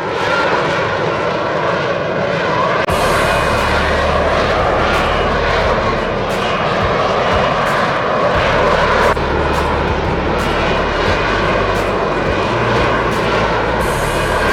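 Jet aircraft engine noise, loud and steady, with the deep low end shifting abruptly about three and eight seconds in.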